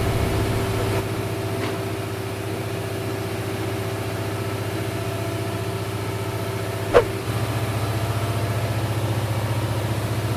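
Tugboat engine-room machinery running with a steady, evenly pulsing drone. About seven seconds in there is one sharp knock, and the drone's tone shifts slightly just after it.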